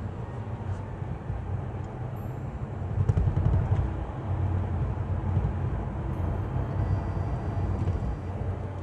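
Car road noise heard from inside the cabin while driving: a steady low rumble of tyres and engine. It gets louder for about a second, around three seconds in.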